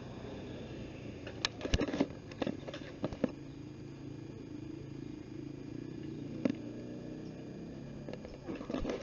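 A cluster of sharp clicks and knocks, about one and a half to three seconds in, and a single click about six and a half seconds in, over a steady low background hum.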